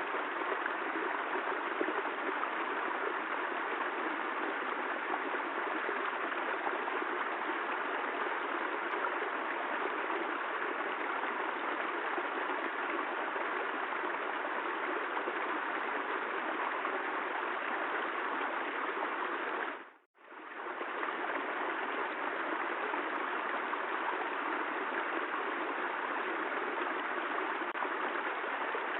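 Steady rain, an even continuous wash of falling water. It drops out to silence for a moment about twenty seconds in and comes straight back.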